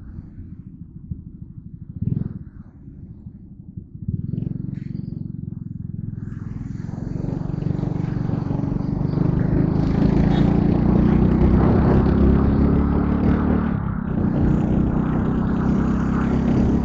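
Yamaha Crypton R single-cylinder underbone motorcycle engine running low for a few seconds, then pulling away with the engine note rising, and wind rushing over the action-camera microphone as speed builds.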